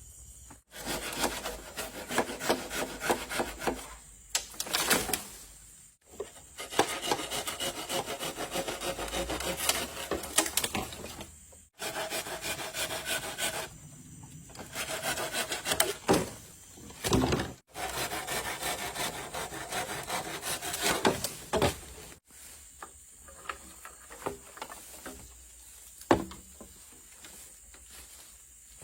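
Wood being sawn by hand in quick back-and-forth strokes, in several short stretches broken by abrupt cuts. The last several seconds are quieter, with a few scattered knocks.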